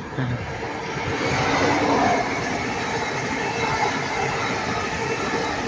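Avanti West Coast electric passenger train running through the station, with wheel-on-rail and running noise. It rises sharply at the start and is loudest about two seconds in.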